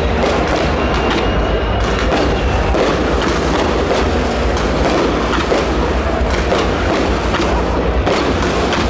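Fireworks going off in quick succession, a rapid run of sharp bangs several a second over a steady, dense rumble.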